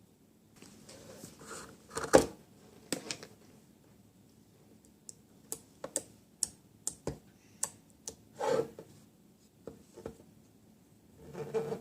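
Small plastic slime containers and packaging being handled: scattered sharp clicks and taps, with a few short rustles.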